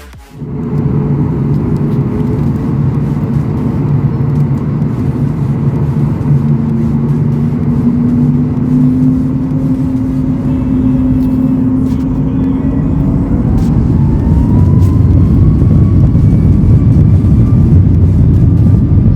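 Boeing 737 MAX 8's CFM LEAP-1B jet engines heard from inside the cabin: a steady hum with several tones. About two thirds of the way through, a tone rises in pitch and the sound grows louder as the engines spool up.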